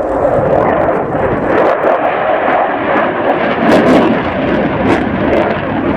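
Continuous jet noise from a French Air Force Rafale fighter flying its display, a loud, steady rushing sound.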